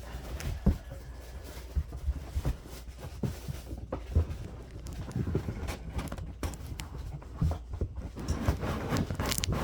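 Cardboard carton and packing being handled as a ceiling-fan motor is worked out of its box: irregular knocks, bumps and rustling.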